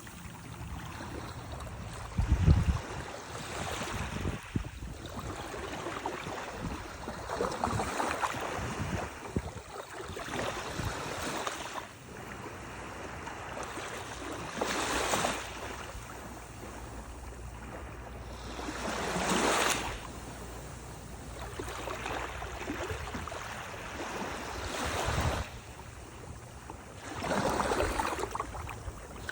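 Gulf surf breaking and washing up the beach: a steady hiss of water with a louder wave surging in every few seconds, and a brief low thump about two seconds in.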